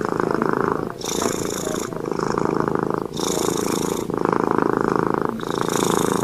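Domestic cat purring, the purr rising and falling in even cycles of about a second, with a breathy hiss in every other cycle.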